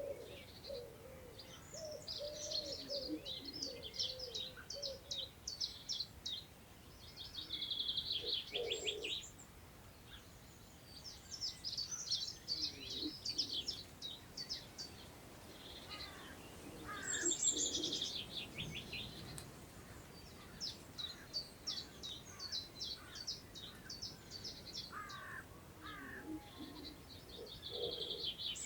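Several wild birds singing in overlapping phrases of high chirps and fast trills, with lower calls beneath, over a faint hiss of wind through long meadow grass.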